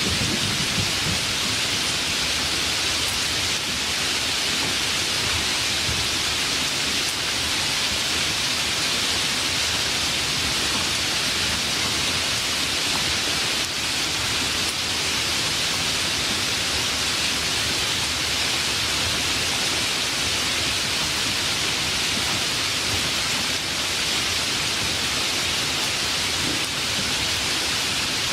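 Steady, even rain of a rainstorm, a dense hiss. A low rumble of thunder dies away in the first second.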